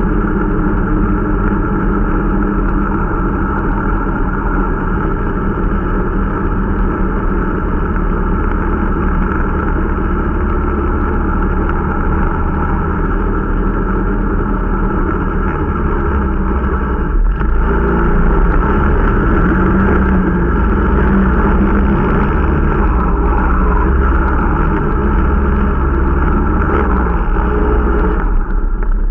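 Irbis Dingo T125 snowmobile's 125 cc engine running steadily under load while riding during break-in. The engine note briefly dips about 17 seconds in and again near the end.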